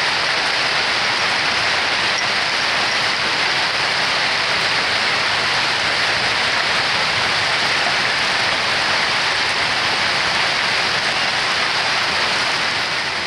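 Heavy spring hailstorm: pea- and marble-sized hail mixed with rain coming down hard and hitting the ground and nearby surfaces in a steady, dense downpour.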